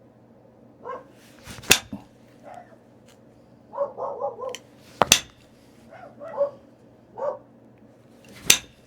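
Three sharp knapping strikes on a stone point as it is thinned, flakes popping off, spaced about three and a half seconds apart. Shorter pitched sounds come between the strikes, including a quick run of four near the middle.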